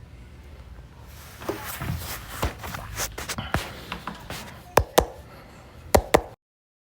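Plastic water bottle crinkled by hand, a dense crackling with many small clicks, then several sharp louder clicks near the end before the sound cuts off abruptly.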